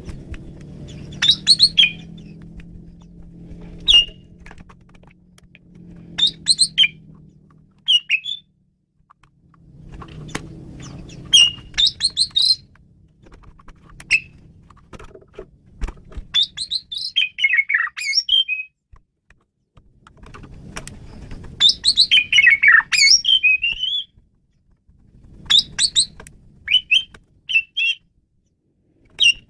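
Asian pied starling (jalak suren) singing in short bursts of loud whistles and chattering notes, a phrase every two or three seconds, with longer runs of scratchy, falling chatter about halfway and about three-quarters through. A faint low hum comes and goes underneath.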